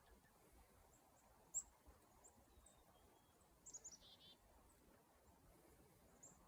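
Near silence with faint bird chirps: a single high chirp about a second and a half in, and a quick run of chirps falling in pitch around four seconds in.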